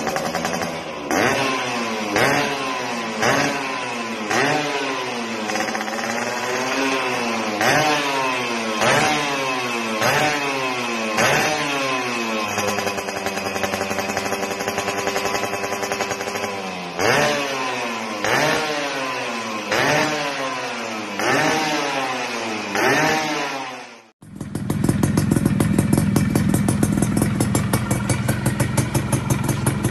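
Two-stroke underbone motorcycle with a TNX racing exhaust being revved in quick repeated blips, the pitch rising and falling about once a second, with the revs held steady for a few seconds midway. About 24 seconds in it cuts suddenly to a two-stroke exhaust running steadily at higher revs with a rapid, even pulsing.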